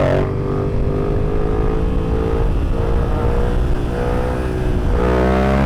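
Yamaha FZ-07's parallel-twin motorcycle engine pulling under way, its pitch rising slowly, over steady wind noise. About five seconds in, the engine note gets louder and fuller.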